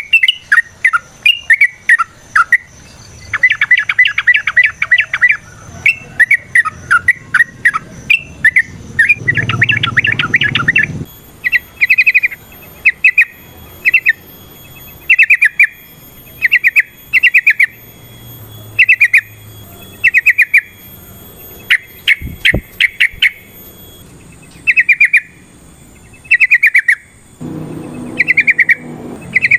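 Yellow-vented bulbul (trucukan) calling over and over in short, rapid chattering bursts, about one burst a second.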